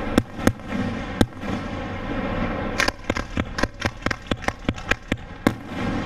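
Aerial fireworks shells bursting: a few sharp bangs in the first second or so, then from about three seconds in a quick run of sharp pops, several a second.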